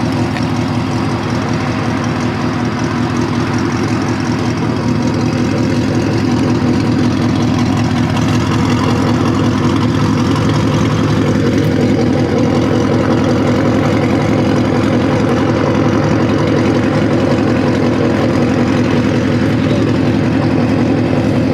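Car engine idling steadily, getting slightly louder about six seconds in.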